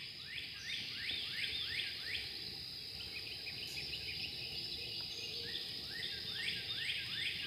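A songbird singing a run of quick downslurred whistles, about three a second, in two bouts: one at the start and one beginning about six seconds in. A steady high insect drone runs underneath.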